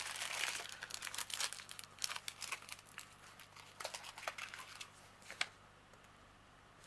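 Small plastic bags of diamond painting drills being handled and sorted, crinkling and rustling with many small clicks; the handling stops about five and a half seconds in.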